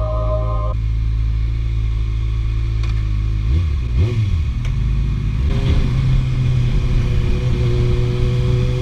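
Kawasaki ZX-6R inline-four sport bike running through an IXIL aftermarket exhaust: steady idle, quick throttle blips about three and a half seconds in and again near the middle, then holding a steady, slightly raised engine speed.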